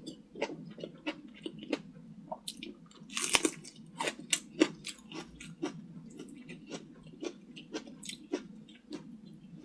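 Close-miked mouth sounds of a person chewing a mouthful of pan-fried enoki mushrooms: a run of short wet clicks and smacks, with a louder crunchy bite a little past three seconds in.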